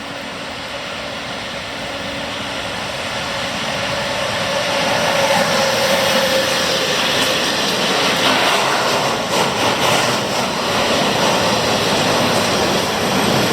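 A train running along the platform. It grows steadily louder over the first several seconds and then holds loud and steady, with a faint tone sliding slightly down about halfway through.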